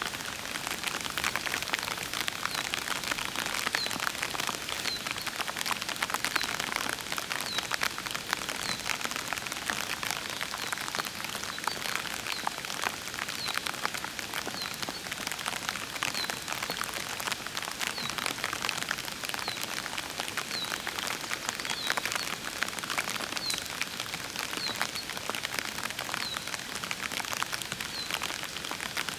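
Steady rain falling, a dense patter of drops. A short high chirp repeats about every second and a half over it from about two seconds in.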